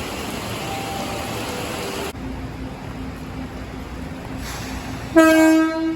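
Electric commuter train's horn sounding one short, loud, steady note near the end, over a steady background rumble and hiss of the station.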